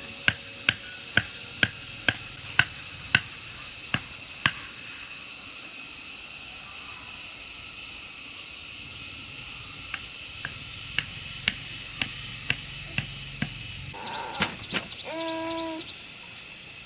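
Sharp knocks repeated about twice a second, in two runs, over a steady high-pitched hiss. Near the end comes a short pitched call.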